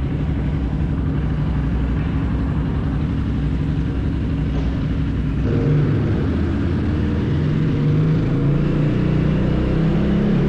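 BSE enduro motorcycle engine running steadily, its revs picking up about halfway through.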